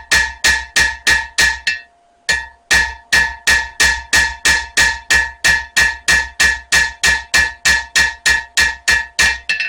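Hand hammer striking a spring-steel knife blade on an anvil in a steady rhythm of about four blows a second, with a short pause about two seconds in. Each blow leaves a ringing tone, and the ring hangs on after the last blow.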